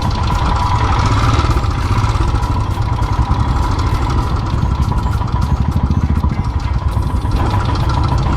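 Single-cylinder Royal Enfield motorcycle engine running steadily at low revs.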